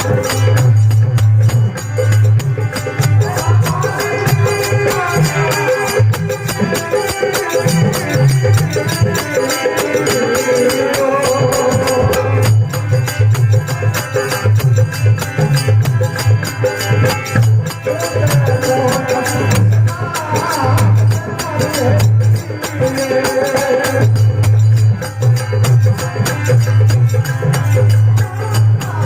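Devotional folk bhajan music: a male singer's voice over a steady dholak rhythm and other hand percussion.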